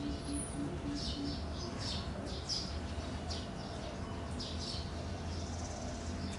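Small birds chirping: repeated short chirps that fall in pitch, several a second in bursts, over a steady low hum.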